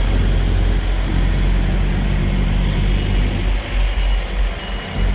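Kenworth W900 semi truck's diesel engine running steadily under way, a continuous low drone.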